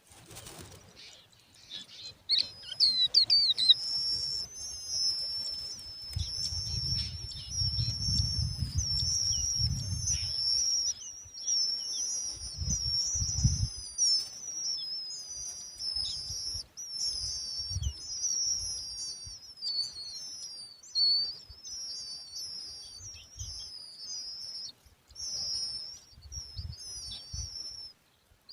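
Lark chicks begging for food: a near-continuous string of high, thin, rapidly repeated chirps, starting about two seconds in. Low rumbles come and go underneath, mainly around a third of the way through.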